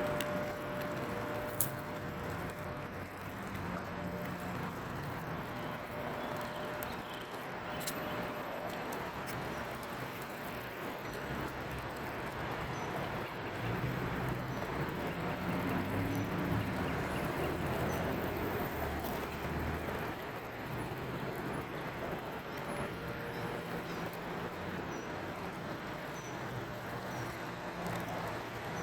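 Steady road traffic: a haze of passing cars, with low rumbles that swell and fade as vehicles go by.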